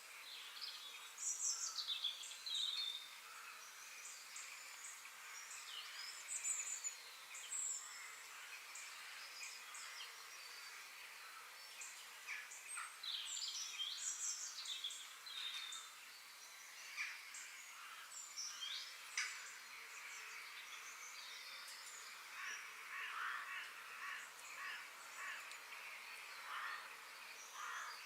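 Several birds chirping and calling, in many short sweeping notes, over a steady background hiss.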